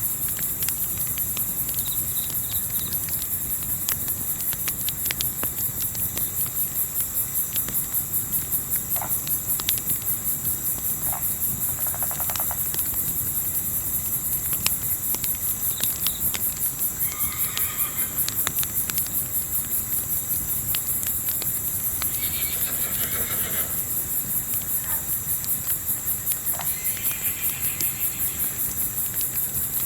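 Crickets chirping in a fast, even pulse over the scattered sharp pops of a crackling wood fire, with a low steady rumble of wind beneath. A few short, faint calls come and go through the middle and near the end.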